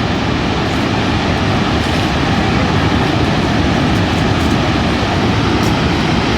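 Loud, steady roar of a large waterfall's rushing, plunging water, an unbroken rumbling noise.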